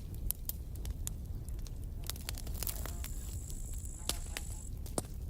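Campfire burning: irregular sharp pops and crackles of burning wood over a steady low rumble of the flames. A thin, high, steady whine joins in partway through and stops about a second before the end.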